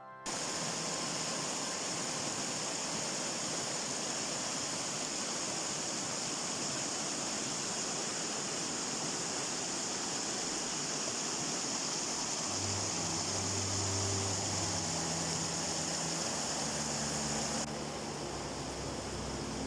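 Stream water rushing, a steady hiss. A low hum joins for a few seconds past the middle.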